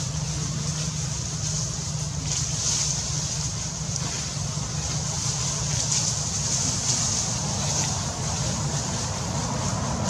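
Steady outdoor ambience: a constant low rumble under a continuous high-pitched buzz, with no clear single event.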